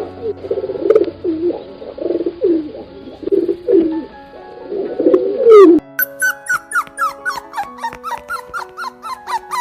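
Pigeons cooing, with soft music underneath. About six seconds in, an abrupt cut to a rapid run of short, high squeaks, about three a second, over sustained music notes.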